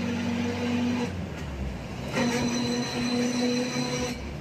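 Light-rail train running with a steady whine and high squealing tones from the wheels. The whine fades about a second in and comes back strongly about two seconds in.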